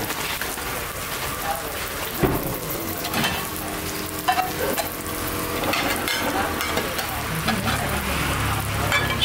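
Dosas sizzling in small cast-iron pans on gas burners, with scattered clinks and knocks of steel lids and utensils and one sharper knock about two seconds in. A low rumble comes up near the end.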